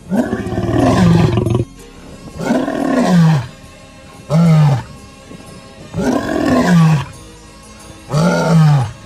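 Lion roaring: five loud, deep roars about two seconds apart, each rising and then falling in pitch.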